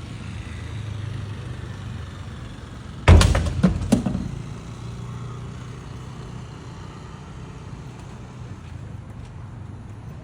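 A heavy truck engine running steadily with a low hum. About three seconds in, several loud bangs follow one another quickly over about a second.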